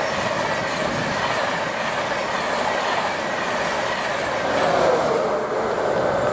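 InterCity 225 set, a Class 91 electric locomotive and coaches led by a Class 82 driving van trailer, passing through the station: a steady rush of wheel and rail noise, with a tone that falls in pitch about five seconds in.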